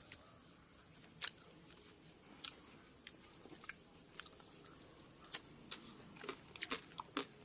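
Close chewing and biting into crispy grilled quail: sharp crunches about once a second at first, coming several in quick succession near the end.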